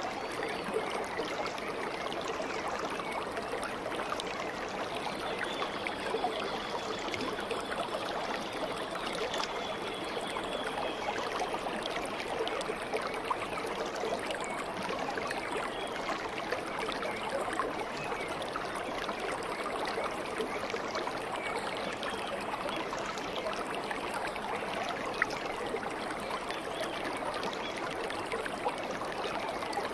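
Stream water babbling and trickling steadily over stones, an even rushing-gurgling flow with no breaks.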